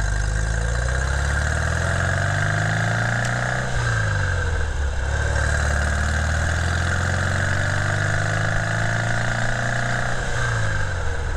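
Porsche 356's air-cooled flat-four engine pulling under acceleration, its pitch climbing, with two gear changes, about four seconds in and near the end. It runs clean, with no popping, the sign of an engine in good tune.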